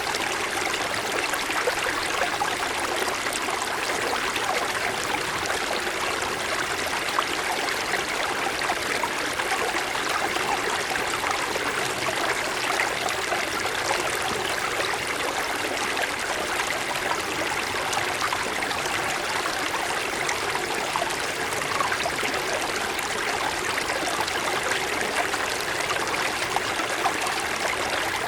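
Mountain stream flowing over stones, a steady splashing and babbling rush of water with small trickles.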